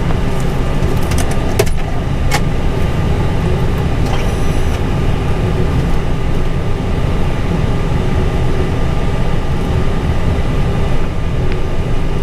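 Steady low rumble inside an Airbus A320 cockpit, with the engines running at idle, and a few light clicks.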